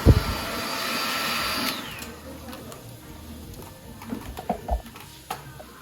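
Salon hair dryer blowing steadily, with a knock just at the start. It is switched off under two seconds in, its whine falling as the fan winds down. A few light clicks follow.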